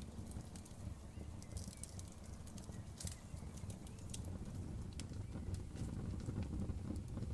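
Campfire burning, with irregular sharp crackles and pops, a denser run of them about two to three seconds in, over a steady low rumble of the flames.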